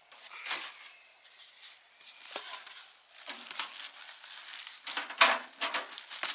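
Irregular handling noise: light knocks, clicks and rustling as objects are moved about, with a sharper knock about five seconds in.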